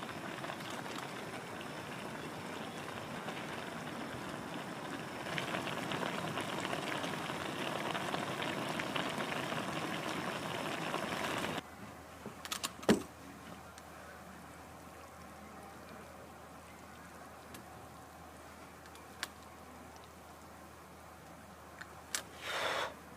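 A steady watery hiss that grows louder partway through, then cuts off suddenly about halfway. A few sharp clicks follow, then a quieter stretch with an odd tick.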